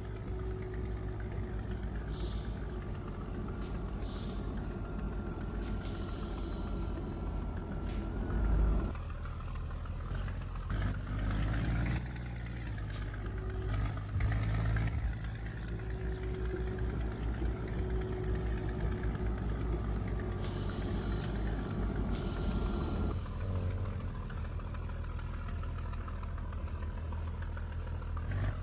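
Scania G124 truck's six-cylinder diesel engine running, with several short hisses of compressed air from the air system. The engine note shifts about a third of the way in and again near the end.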